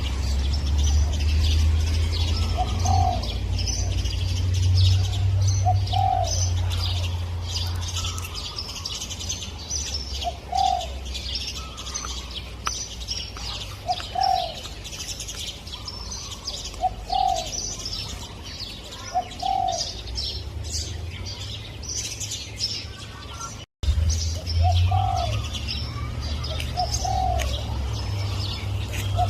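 Spotted dove cooing, short low notes repeated every few seconds, over dense high chirping of small birds and a steady low rumble. The sound cuts out for an instant about three-quarters through.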